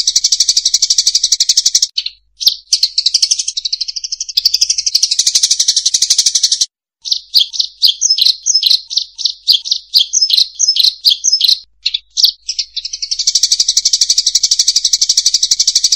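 Emprit sawah (rice-field munia) calls played as a bird-lure recording: a dense, rapid high buzzing trill, which breaks off about 2 s in for scattered chirps and then a quick run of short repeated notes, and resumes near the end.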